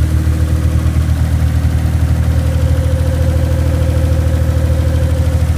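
1995 Mitsubishi 3000GT's non-turbo 3.0-litre V6 idling steadily, loud and pulsing because of an exhaust leak.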